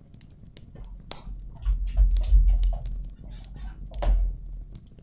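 Close handling noise: a quick run of rustles, scrapes and clicks, with heavy low thumping from about one and a half to four seconds in.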